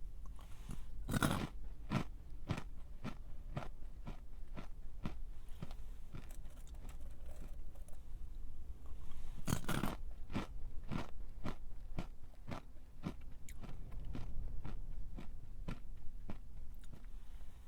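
A crunchy snack being eaten: two loud bites, about a second in and again about halfway through, each followed by steady crunchy chewing at about two chews a second.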